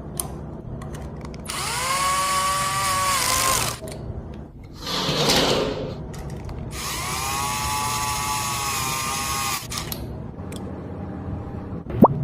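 Power drill or driver running in two bursts, each spinning up in pitch and then holding a steady whine for about two to three seconds, as parts of a radiator fan are fastened. Between the bursts there is a short rushing hiss, and a sharp short sound comes near the end.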